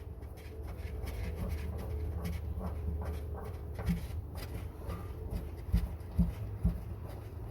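Soft, scattered clicks and knocks of hands working a water heater's cold-water inlet valve as it is turned closed, over a steady low hum.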